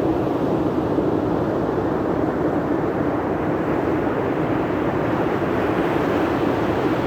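Steady rushing noise of wind and sea surf, even in level throughout.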